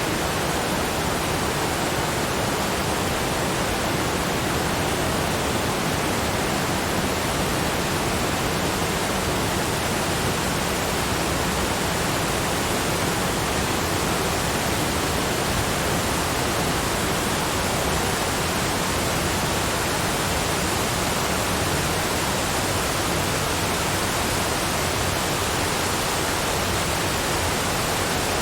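Waterfall rushing in a steady, unbroken hiss spread evenly from low to high pitches, with no change in level.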